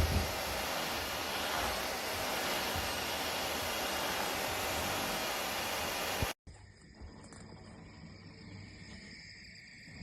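Cordless wet-dry floor cleaner's suction motor running with a steady rushing hiss, which cuts off suddenly about six seconds in. What follows is much quieter, with only faint steady high-pitched tones.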